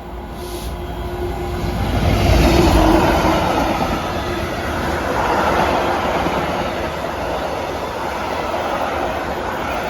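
Class 66 diesel-electric locomotive hauling a freight train through the station. The sound builds to its loudest about two to three seconds in, then settles into a steady rumble and clatter of freight wagons on the rails.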